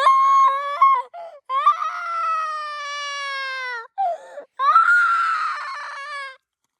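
Puppies howling and whining in high-pitched wails: a few short cries, then a long drawn-out wail of about two seconds that slowly falls in pitch, and another wail about five seconds in.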